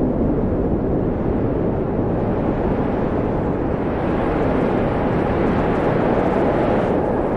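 Steady wind blowing, a low rushing noise that swells brighter about halfway through.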